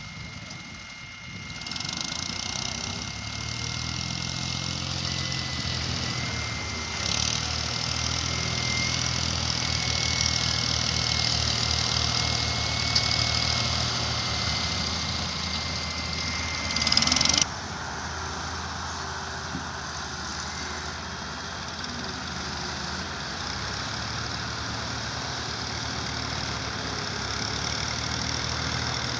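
Heavy machinery engine running steadily, with a steady high whine over it. About 17 seconds in the sound swells briefly, the whine stops abruptly, and an engine runs on with a different tone.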